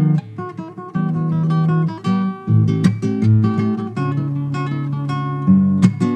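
Acoustic guitar playing an instrumental passage, strummed and picked chords with a moving bass line and no voice.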